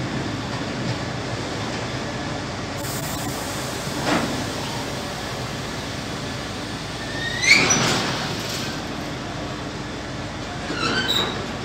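A freight train of empty double-deck car-transporter wagons rolls past with a steady rumble. There are a few clanks, and a brief rising squeal a little past halfway.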